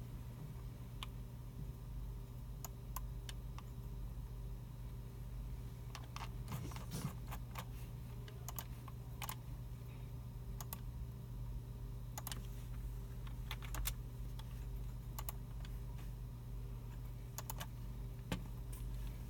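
Scattered computer keyboard keystrokes and mouse clicks from several users, coming in irregular short runs with a small flurry about six seconds in, over a steady low hum.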